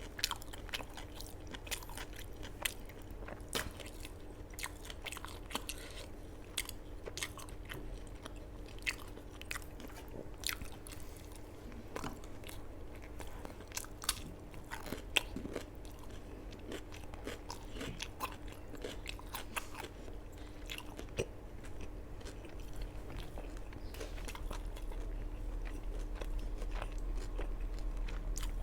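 Close-miked mouth sounds of a person eating rice with chicken curry: chewing with many small irregular wet clicks, over a faint steady hum.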